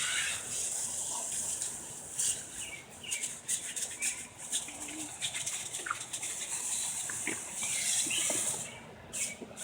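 Garden hose spraying water onto a dog, a hiss that swells and fades as the spray is moved, with scattered small splashes and patters.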